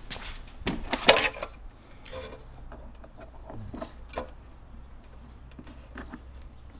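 Knocks, clicks and rubbing of lawn mower parts being handled and fitted together during assembly. The loudest knock is about a second in, followed by scattered lighter clicks.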